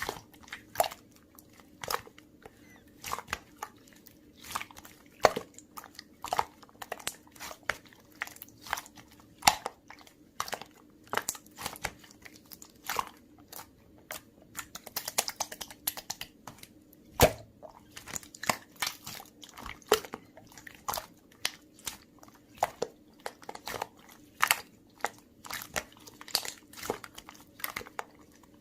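Blue slime being squished and pressed by hand, giving irregular crisp clicks and pops, a few a second, over a faint steady hum.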